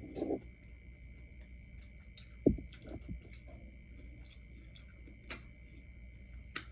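Close-up chewing of food, with small wet clicks scattered through and one louder knock about two and a half seconds in.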